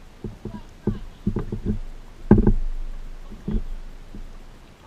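Irregular hollow knocks and thumps from a kayak being paddled, the loudest about two and a half seconds in.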